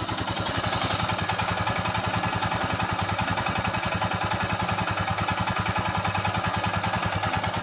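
Royal Enfield Himalayan single-cylinder engine idling steadily, a rapid even beat of exhaust pulses, just after its rocker (tappet) clearance was adjusted to cure a rocker noise.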